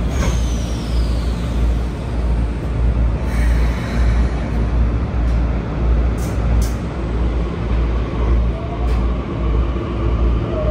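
Keikyu 1000 series electric train running, heard from inside the car: a steady low rumble of wheels on the track, with a high whine from the Toshiba IGBT-VVVF inverter falling in pitch at the start and a few sharp clicks later.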